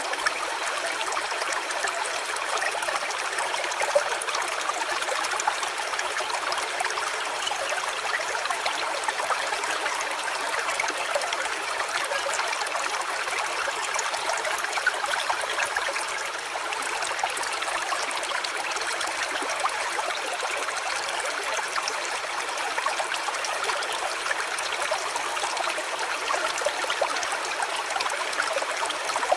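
A small stream trickling and babbling steadily, with no change in level.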